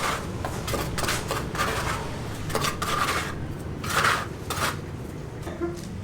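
Irregular scraping and clinking of hard objects, several separate strokes a second or so apart, over a steady low hum.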